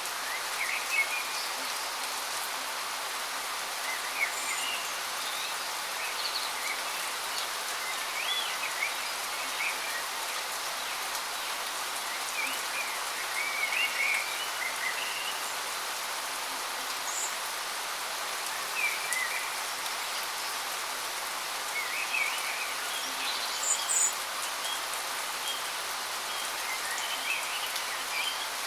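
Steady rushing of a waterfall, with short bird chirps coming every few seconds.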